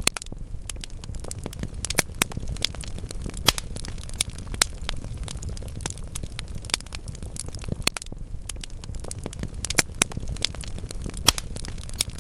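Wood fire burning in a fireplace: logs crackling with irregular sharp snaps and a few louder pops over a steady low rumble of flame.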